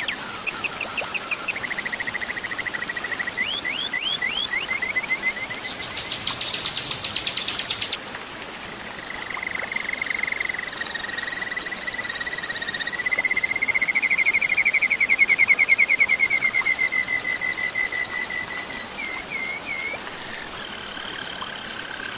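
Small songbirds singing a chain of rapid trills and chirp runs. About six seconds in comes a higher, buzzing trill lasting two seconds, and from about nine seconds a long trill that wavers in pitch for some ten seconds.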